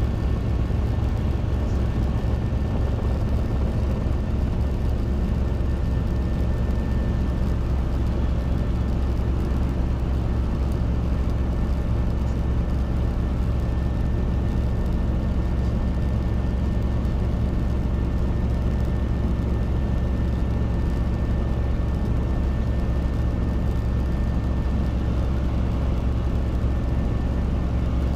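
Robinson R22 helicopter in steady flight: unbroken engine and rotor drone with a thin, steady high whine above it.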